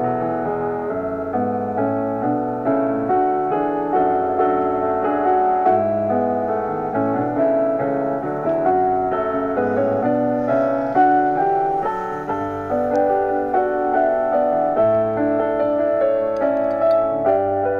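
Background piano music, a steady stream of gentle notes.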